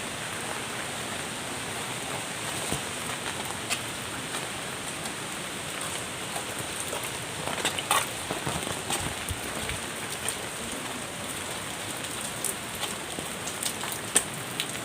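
Steady rain falling, with scattered sharper taps of individual drops.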